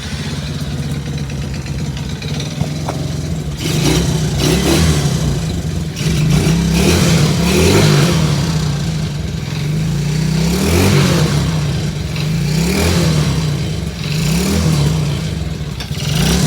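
Quad (ATV) engine running just after a cold start on the choke: it idles steadily for a few seconds, then revs rise and fall again and again.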